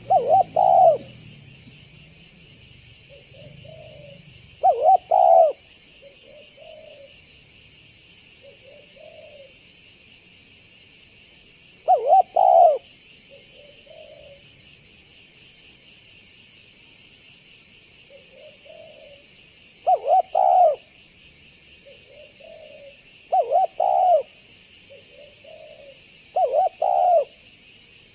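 Spotted dove (tekukur) cooing in a deep 'banggo' voice: six loud phrases of two or three notes, a few seconds apart, with fainter coos between them. A steady high-pitched whine runs underneath, swelling every few seconds.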